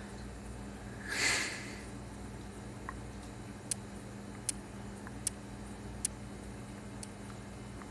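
Unbranded 42-inch ceiling fan coasting down after being switched off: a low steady hum, a brief soft whoosh about a second in, then faint sharp ticks a little faster than once a second from about four seconds in, slowly spacing out as the fan loses speed.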